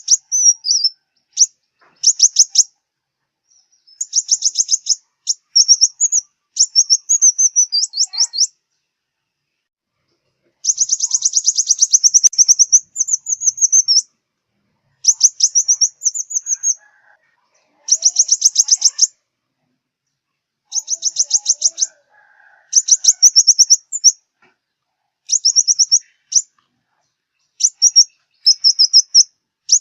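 Sunbird (the Vietnamese 'five-colour sunbird') singing high, rapid trilled phrases in repeated short bouts, with one longer pause about a third of the way in.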